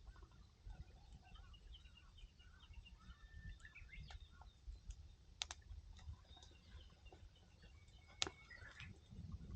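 Wood fire crackling faintly, with two sharp pops about five and eight seconds in, over faint chirping birds.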